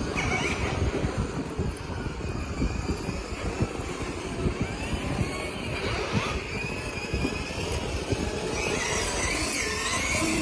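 Motorcycle running on the move, a steady rumble of engine and road noise.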